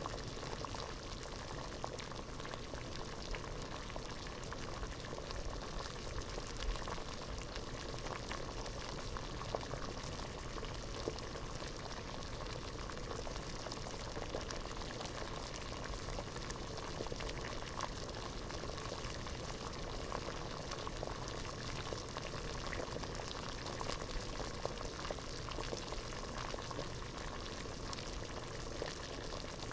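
Water boiling hard in a pot: a steady bubbling with many small irregular pops and blips throughout.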